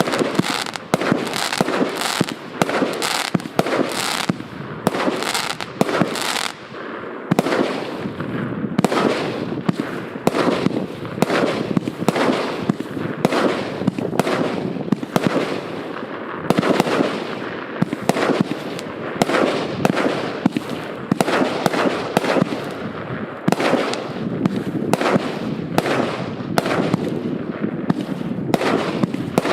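A 100-shot, 1-inch-calibre firework battery (cake) firing continuously. Sharp reports of launches and aerial bursts follow one another closely, several a second.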